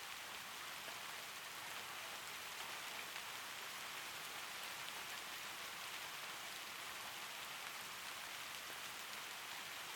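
Steady rain falling, an even hiss with faint scattered drop ticks that holds level throughout.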